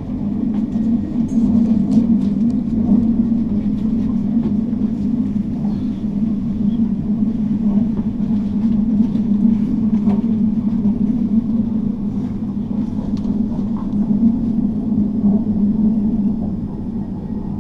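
Passenger train running: a steady low rumble with a strong even hum and a few faint clicks.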